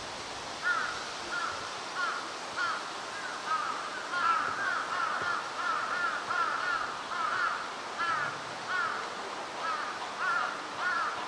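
Birds calling over and over: short arching calls, several a second and overlapping as if from more than one bird, starting under a second in and growing denser from about four seconds in, over a steady outdoor hiss.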